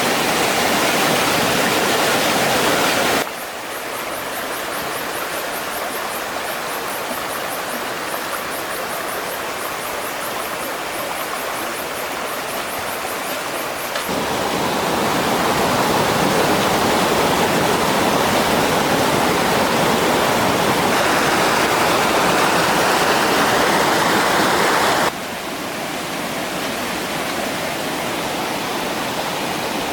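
Stream water rushing steadily, with the level changing abruptly a few times. A fast, high, even ticking runs through the first third.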